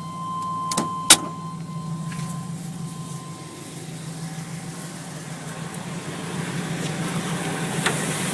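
Chevy pickup engine idling steadily, with a steady chime-like tone that stops about a second in. Two sharp knocks come about a second in, the second the loudest sound, and a fainter click near the end.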